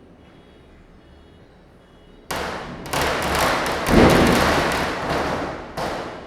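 Diwali firecrackers bursting: a sudden bang about two seconds in, then a rapid run of crackling bangs for a few seconds, loudest in the middle and dying away. Two more sharp bangs come near the end.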